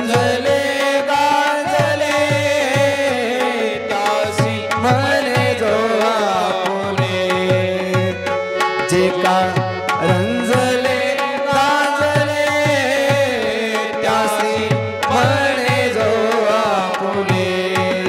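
Devotional kirtan music: a hand drum plays a steady rhythm of several strokes a second under sustained held tones and a gliding melody line.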